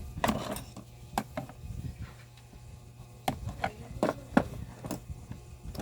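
Irregular sharp clicks and knocks of hand tools working on a small speaker's casing or parts, over a steady low hum; the part being worked at is stiff.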